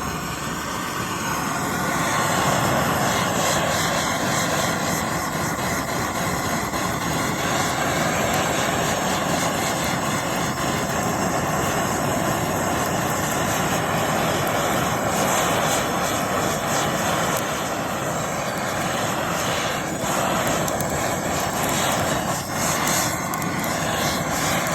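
Gas blowtorch flame running steadily as it chars pine cladding boards, a continuous rushing hiss.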